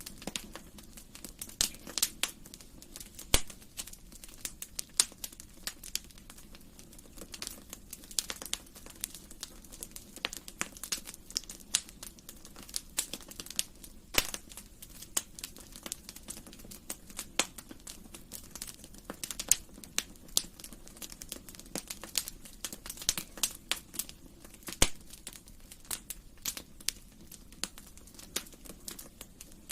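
Fire in a fireplace crackling, with irregular sharp pops and snaps several times a second over a soft, steady low rush.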